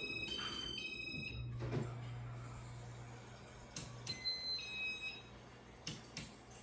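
Casablanca IntelliTouch ceiling fan receiver beeping short electronic tone patterns in answer to wall control button presses: one set near the start and another about four seconds in. Several sharp clicks fall between them, and the fan motor's low hum fades.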